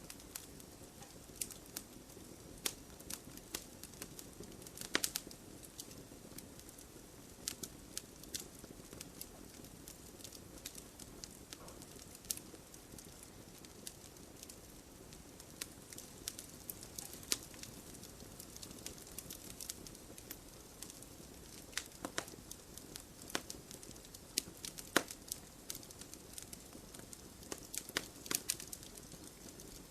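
Wood campfire burning with a steady low rustle and irregular sharp crackles and pops. A few louder snaps stand out now and then.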